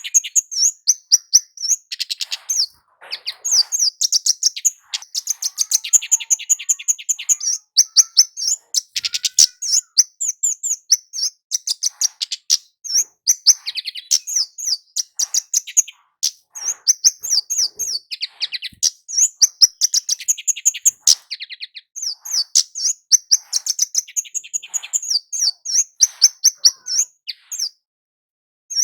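Kemade jawa, a flowerpecker, singing in long runs of rapid, high, sharp chips and twitters, broken by short pauses.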